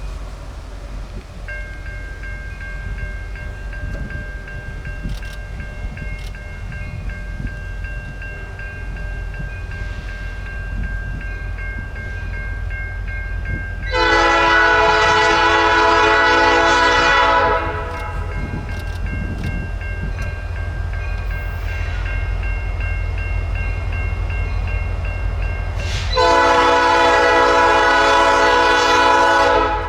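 Diesel locomotive air horn sounding two long blasts, each about three and a half seconds long and about twelve seconds apart, over the steady low rumble of a train.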